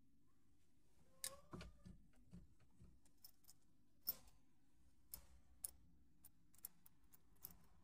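Faint, irregular clicks and light ticks, about a dozen of them, over a low steady hum; no engine is running.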